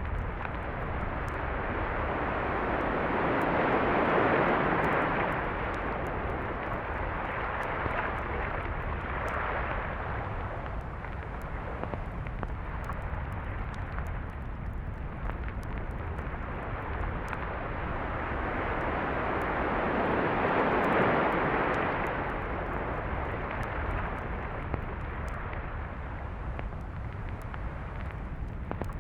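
Ocean surf on a beach: an even rushing noise that swells as waves break, loudest about four seconds in and again about twenty-one seconds in.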